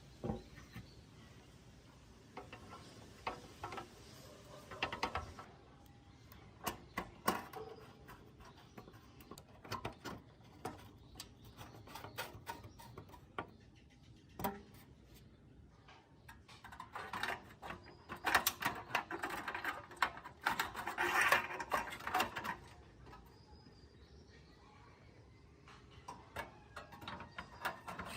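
Scattered small clicks, taps and scraping of parts and tools being handled at a workbench, with a busier run of scraping and rattling about two-thirds of the way through.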